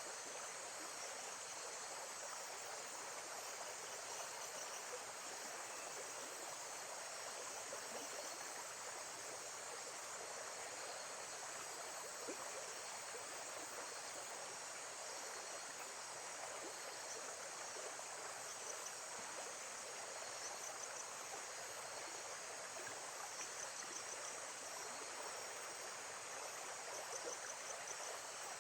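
Nature ambience of steady running water, with faint high insect chirps now and then.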